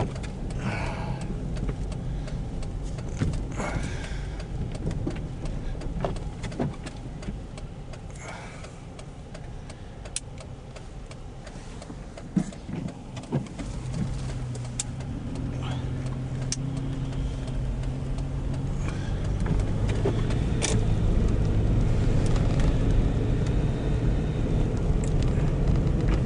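Car driving, heard from inside the cabin: a steady engine and road rumble that builds in the second half and is loudest near the end, with a few scattered clicks.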